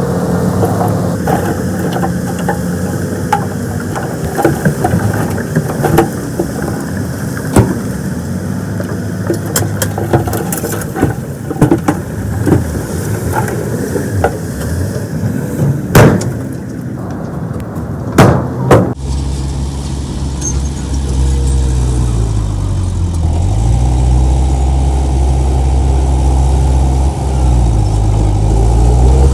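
Diesel engines of heavy earthmoving machines working, with repeated metal clanks and a few sharp, loud bangs. About two-thirds of the way through the sound changes abruptly to a deeper, louder engine drone that dips and rises in pitch as the machine is revved.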